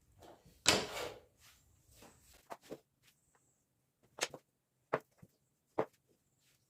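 A short scraping rush about a second in, followed by six or so light, sharp knocks at uneven intervals: wooden pieces or tools being handled and set down on a workbench.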